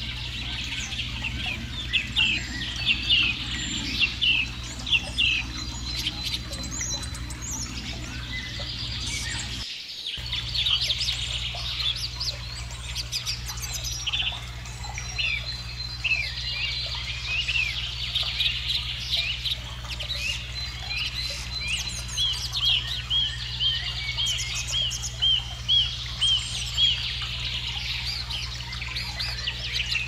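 Many small songbirds chirping, calls overlapping, with a run of quick, evenly repeated notes near the end, over a steady low hum.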